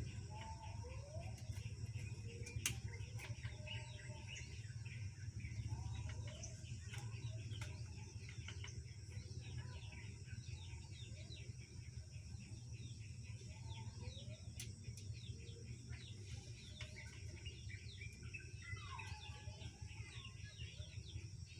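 Birds chirping again and again over a steady low hum, with a few sharp clicks, the loudest about three seconds in.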